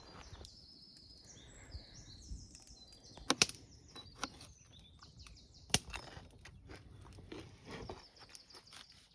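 Birds singing in the forest, short high notes repeated over and over, with a few sharp clicks or knocks cutting in, the loudest about three and a half and six seconds in.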